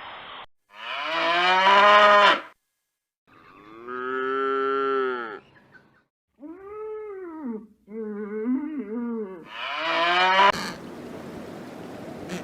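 Cattle mooing: a run of about five long, pitched moos with short pauses between them, the later ones wavering in pitch. Near the end a steady rushing noise takes over.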